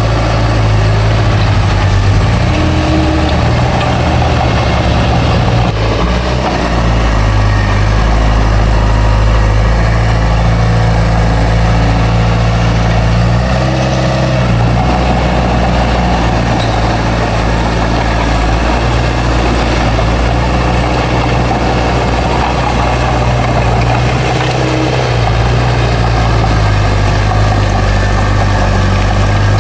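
Bulldozer's heavy diesel engine running steadily under load. Its note shifts briefly three times, about 3, 14 and 25 seconds in.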